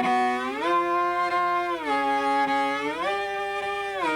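Solo cello playing a thumb-position shifting exercise on sustained bowed notes. Each note is joined to the next by an audible slide, going alternately up and down, with the upward shifts a tritone.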